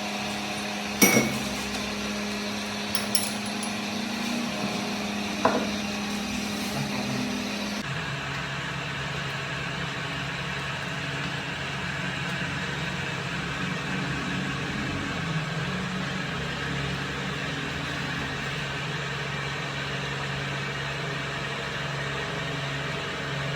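Steady hum of running workshop machinery with three sharp metal clanks in the first six seconds, the loudest about a second in. About eight seconds in the hum changes abruptly to a lower-pitched steady drone.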